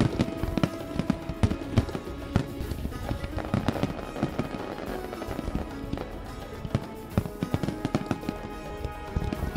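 Fireworks bursting in a rapid, irregular run of sharp bangs, with music playing.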